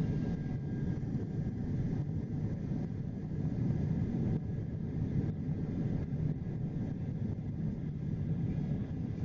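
Steady low rumble of a Boeing 767-300's engines and rushing air, heard from inside the passenger cabin.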